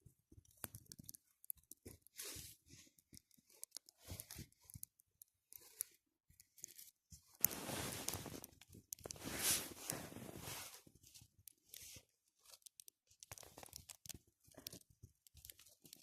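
Irregular crunching and rustling, like dry material being torn, broken or handled, in many short crackles, with a longer, louder stretch about halfway through.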